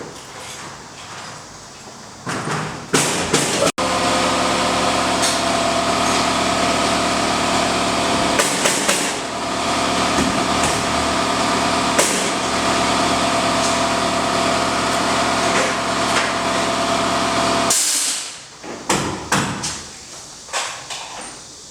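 A few knocks, then a motor runs at a steady pitch for about fourteen seconds and stops abruptly, followed by more knocks.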